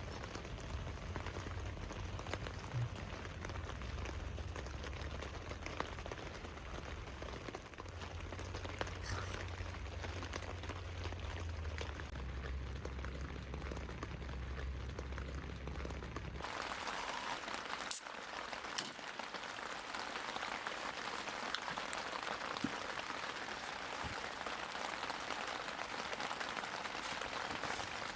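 Steady rain falling, with scattered sharp drop hits. A low hum runs under it for the first sixteen seconds or so, then stops abruptly, and the rain sounds brighter after that.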